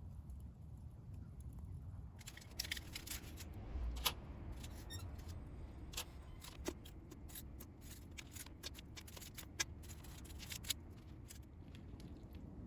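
Wood fire burning in a cylindrical fire pit with a steady low rumble, and irregular sharp crackles and pops from the burning wood starting about two seconds in.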